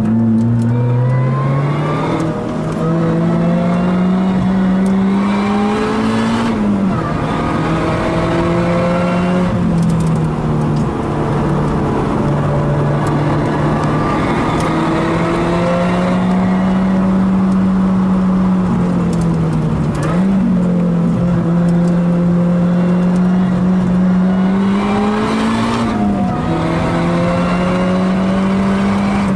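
Lotus Elise race car's engine heard from inside the cabin while being driven hard on track: the engine note climbs under acceleration and drops sharply at each upshift, several times, over steady tyre and wind noise.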